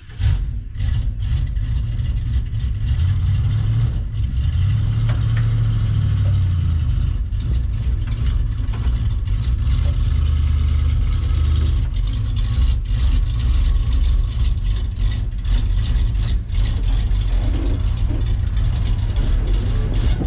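A vehicle engine running steadily with a heavy low rumble, starting abruptly and holding on without a break.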